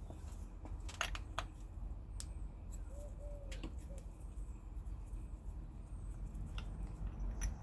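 A few light clicks and taps from hands working on a model glow engine that is not running, over a low steady hum.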